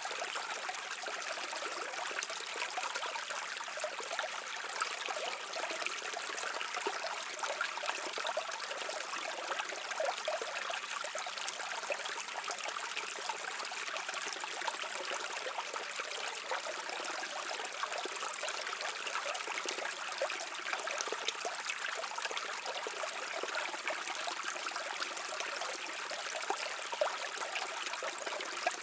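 Brook water running and trickling over stones: a steady rushing babble with small splashes throughout.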